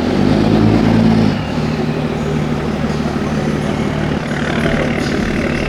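A truck engine running at idle, loudest for about the first second and then holding a steady low hum.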